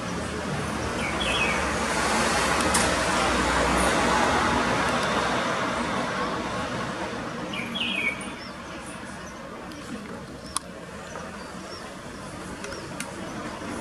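A small songbird, taken from the footage to be a red fody, gives two short chirps, about a second in and again near eight seconds, with a few faint higher calls. Under them runs a steady rushing background noise that drops off after about eight seconds, and there are a few sharp clicks.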